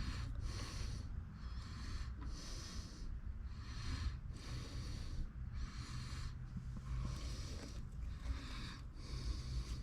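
Metal lathe running with a steady low hum, while the cutter is set up for parting off. A soft hiss comes and goes above it about once a second.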